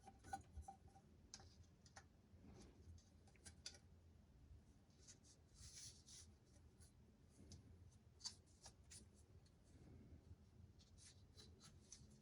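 Near silence: faint, scattered clicks and brief rustles of hands handling parts, a few of them louder around eight seconds in.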